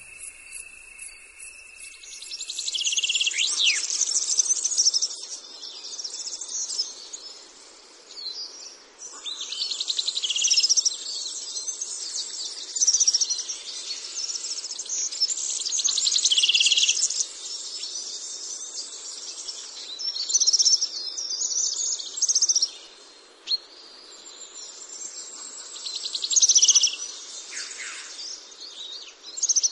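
Birds singing, in bursts of high-pitched song phrases every few seconds, over a steady faint hiss.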